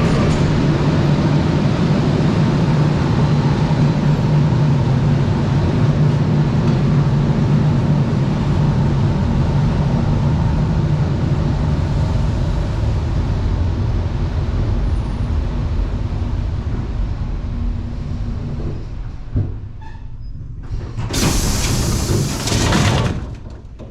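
Suburban electric train running with a steady low rumble that gradually fades as it slows to a halt. Near the end comes a loud hiss of compressed air from the train's pneumatics, lasting about two seconds.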